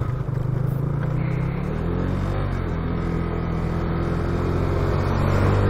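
Motorcycle engine running under way, its pitch rising a little about two seconds in and then holding steady.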